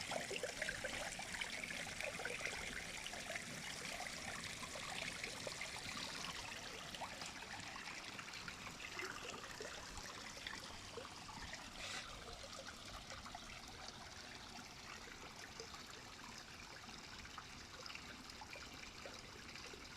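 Water trickling and splashing in a goldfish aquarium, a steady noisy wash that slowly grows quieter.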